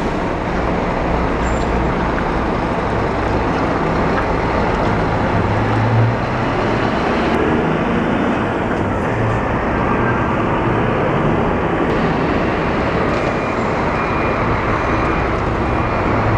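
Scania diesel engine of a double-decker coach running, with steady loud road and traffic noise and a brief louder swell about six seconds in.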